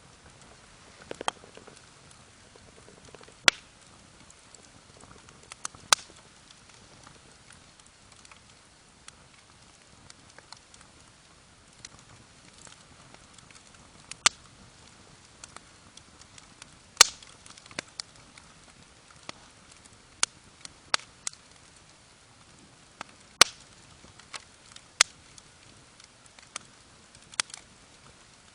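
Wood fire crackling: irregular sharp pops and snaps, a few of them loud, every second or two over a faint steady hiss.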